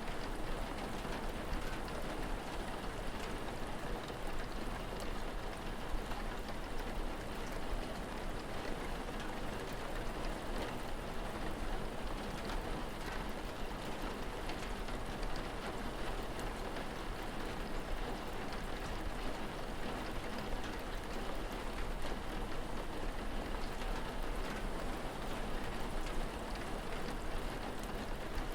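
Steady rain falling, with scattered drop ticks and a low steady rumble underneath.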